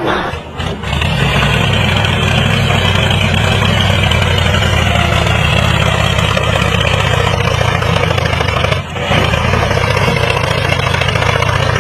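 An engine running steadily, cutting out briefly about half a second in and again near nine seconds.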